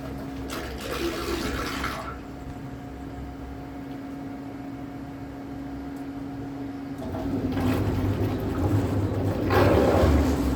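Water rushing and splashing against the hull of an electric trimaran under way, over a steady motor hum. The water noise swells briefly about half a second in and again, louder, near the end.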